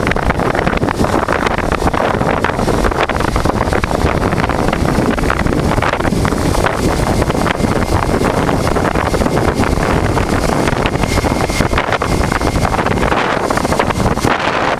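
Steady rush of wind buffeting the microphone of a motorcycle moving at road speed, with the 1988 Honda Transalp's V-twin engine running underneath.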